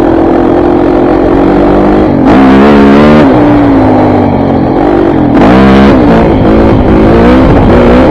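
KTM 400 MXC dirt bike's four-stroke single-cylinder engine running under way, with two blips of throttle: it revs up and back down about two seconds in, and again about five and a half seconds in.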